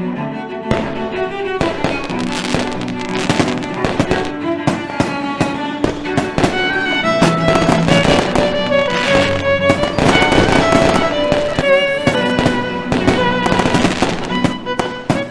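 Fireworks bursting and crackling many times, irregularly, over music with bowed strings.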